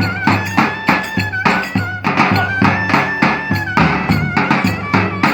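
Lively dance music from a live band: drums keep a fast, steady beat under a melody instrument playing held, ornamented notes.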